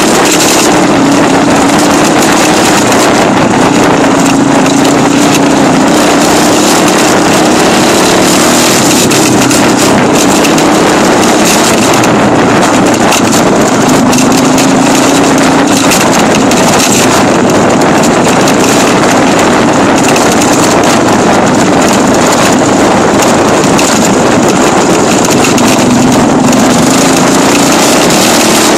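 Dirt bike engine running loud and steady under way, its pitch rising and falling a little with the throttle.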